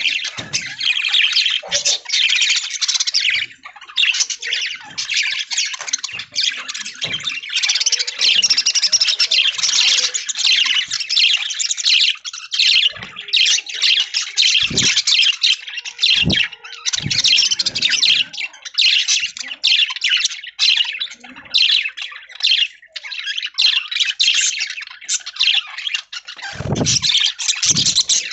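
A flock of budgerigars chattering and chirping nonstop, a dense mass of fast, overlapping warbles and squawks. A few low thumps come through, about halfway and near the end.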